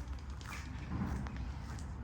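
Footsteps on a park path, faint and evenly spaced, over a steady low rumble, with a few short bird chirps.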